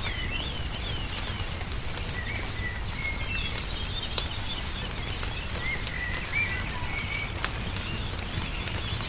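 Small songbirds chirping in short, repeated calls over the crackle and pops of a wood fire, one pop sharper than the rest about four seconds in. A steady low rumble runs underneath.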